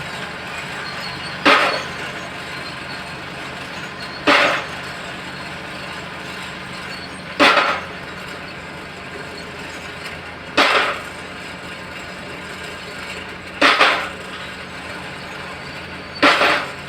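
D85SS bulldozer engine running steadily, broken by six loud, short crashing bangs about every three seconds.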